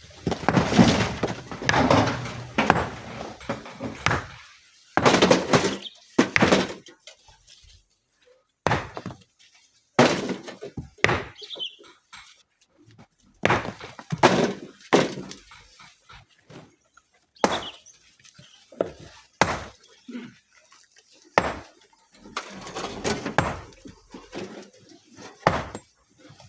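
Rocks being broken and loaded by hand: irregular thuds and cracks of stone, some single and some in longer clattering runs of a second or more.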